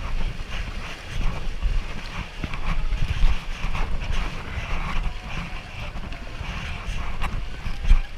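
River water rushing and splashing around a paddled raft, with wind buffeting the microphone in a low, uneven rumble.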